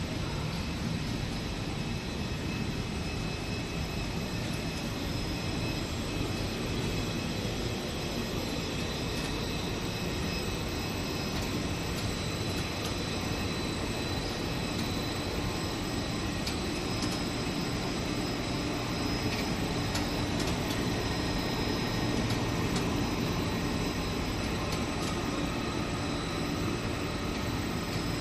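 Rubber extrusion and microwave vulcanization production line running: a constant mechanical hum and hiss with several steady high tones, and a few faint clicks.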